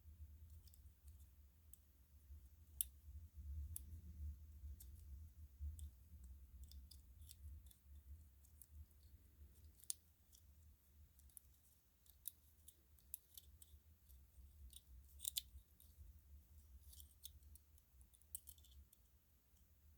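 Faint, irregular small clicks and ticks from string lights being handled: bulbs and cord knocking and clicking, over a steady low hum.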